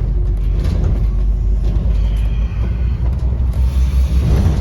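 2008 Scania N230UD OmniCity double-decker bus running, heard from inside the passenger cabin as a steady low engine and road rumble.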